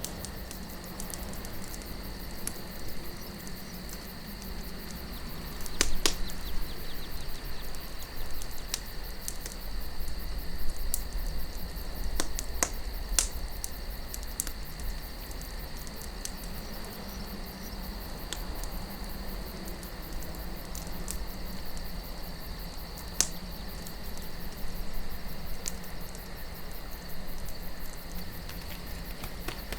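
Campfire of burning wood crackling with scattered sharp pops, the loudest about six seconds in, over steady chirping crickets and a low wind rumble.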